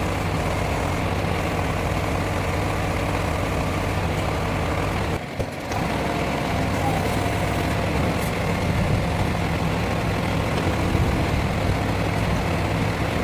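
Diesel lorry engine running steadily at low revs, with a brief drop in level about five seconds in.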